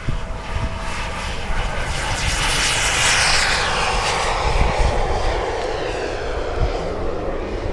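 Large radio-controlled model aircraft flying past, its engine sound building to a peak about three seconds in, then falling in pitch as it goes away.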